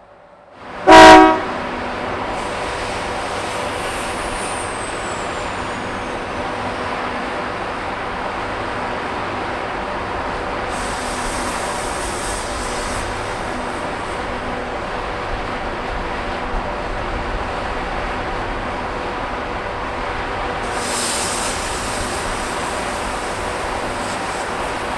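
A KiwiRail EF-class electric locomotive sounds one short, loud horn toot about a second in. The locomotives then give off a steady hum with a constant tone.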